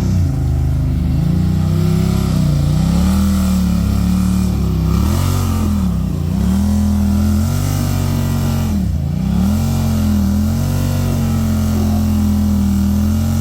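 Side-by-side UTV engine working under load, its pitch sagging and climbing back several times as the throttle is eased and reapplied, then holding steady near the end.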